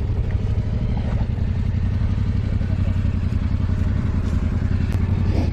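Motorcycle engine running steadily at low revs, a dense even rumble of firing pulses, with a faint click or two.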